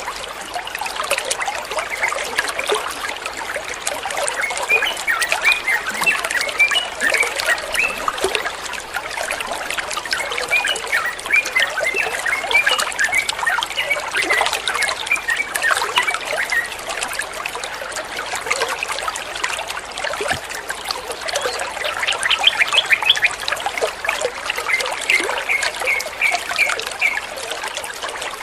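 Running water trickling steadily, with several bouts of quick, short yellow-vented bulbul chirps over it.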